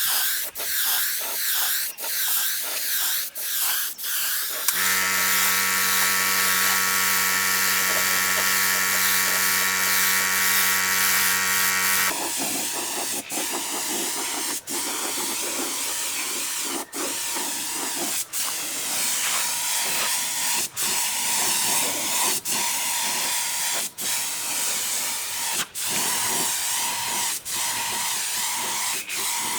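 A loud, hissing workshop noise from a power or air tool, broken by short pauses every second or two. From about five to twelve seconds in, a steady motor hum replaces it.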